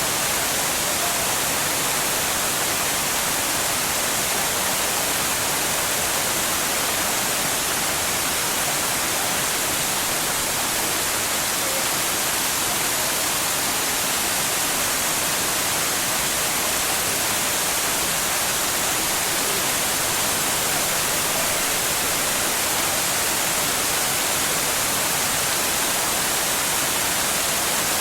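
Waterfall pouring steadily, a constant even rush of falling water with no change in level.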